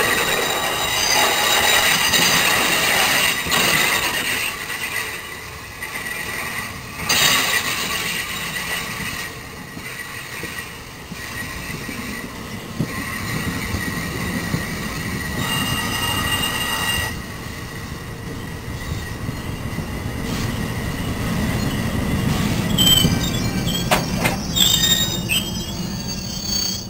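NJ Transit Multilevel double-deck coaches rolling slowly past at low speed, wheels squealing on the rails over a steady rumble. The high squeal comes and goes, and a few sharp clicks sound near the end.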